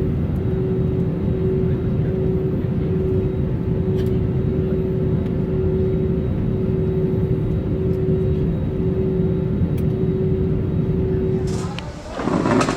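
Steady rumble inside a moving vehicle, with a constant mid-pitched hum over it; it breaks off about twelve seconds in.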